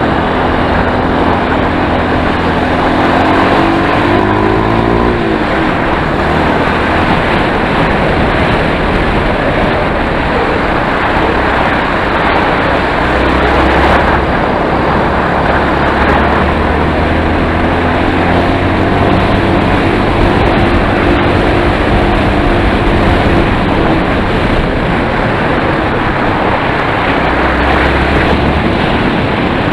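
Enduro motorcycle engine running while being ridden, its pitch rising a few seconds in and again about two-thirds of the way through, over a loud steady rushing noise.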